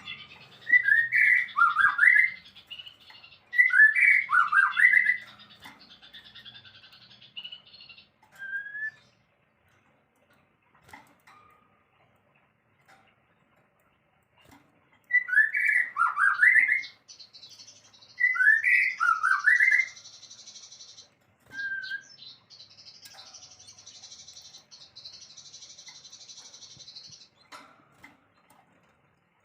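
Songbird singing in four loud, short chirping phrases, two near the start and two about halfway through, over a thin, high, steady buzzing trill.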